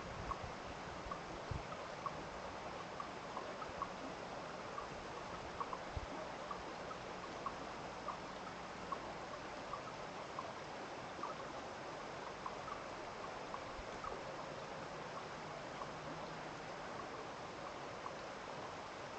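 Stream water running and trickling steadily, with short high peeps repeating about two or three times a second and a few soft low bumps.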